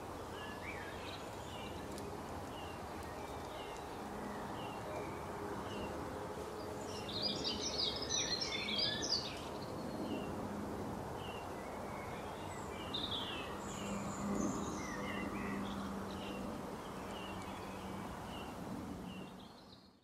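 Birds chirping and singing over steady low background noise. One short chirp repeats about once a second, and busier song comes in briefly about seven to nine seconds in and again a little later.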